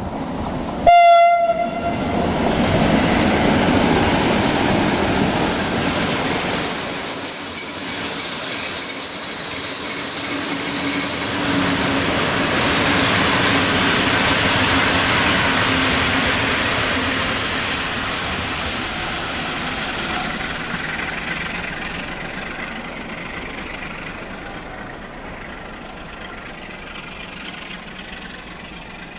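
A short blast on an electric locomotive's horn about a second in, then the locomotive and its passenger coaches rolling past on the rails, with wheel noise and a steady high squeal for several seconds. The train then fades slowly as it draws away.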